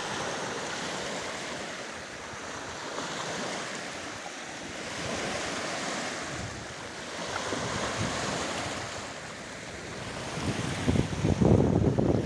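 Waves washing and surging in slow swells under a steady wind. Near the end, gusts buffet the microphone with a rough rumble.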